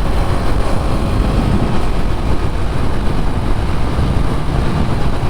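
Husqvarna Svartpilen 250's single-cylinder engine running steadily, a dense low rumble.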